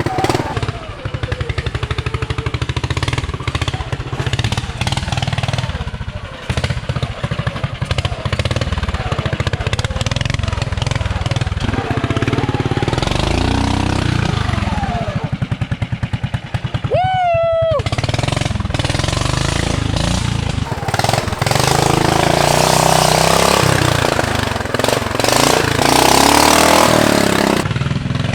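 Modified off-road lawn tractor's engine running hard through a mud course, its revs rising and falling as it works through the mud, getting louder in the last third.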